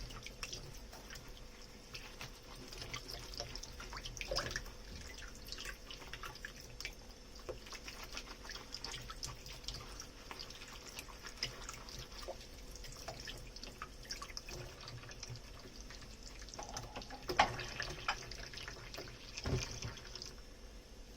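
Dishes being washed at a kitchen sink: water running and dripping, with many small clinks and scrapes of dishware and two sharper knocks a little past three-quarters of the way through.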